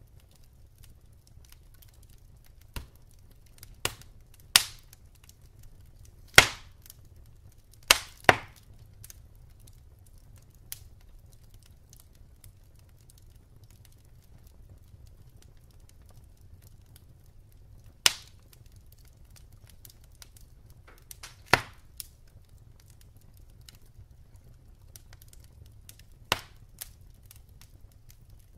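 Wood fire in a fireplace crackling: irregular sharp pops and cracks from the burning logs, the loudest about six seconds in and a quick double crack near eight seconds, over a low steady rumble of the flames.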